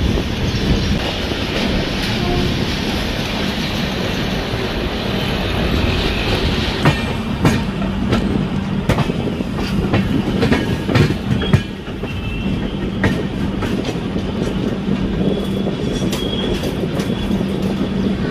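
Moving passenger train heard from aboard: a steady running rumble with wheels clacking over rail joints, the clacks bunching in the middle. Near the end there is a faint, thin wheel squeal.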